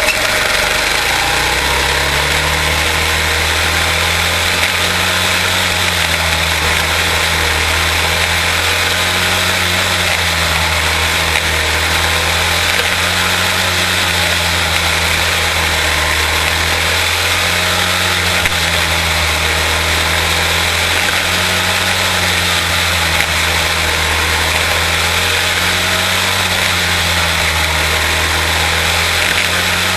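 Quarter midget race cars' Briggs & Stratton Animal single-cylinder engines running, rising in pitch just after the start and then holding a steady note that wavers slightly.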